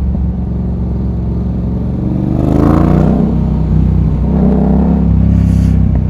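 Yamaha MT-07's CP2 parallel-twin engine through an aftermarket Akrapovič full exhaust with an SC Project end can, running at low revs in traffic. It rises in pitch about two seconds in, eases off, and rises again near the five-second mark.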